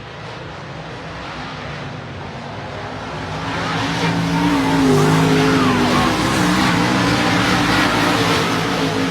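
Dirt-track modified race cars' V8 engines running at speed, several at once. They grow louder over the first few seconds, then stay loud, with engine pitches rising and falling as the cars accelerate and lift.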